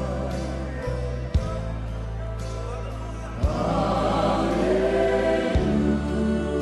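Slow gospel worship music: sustained keyboard chords with low bass notes that shift a few times, and choir voices singing over them, swelling about three and a half seconds in.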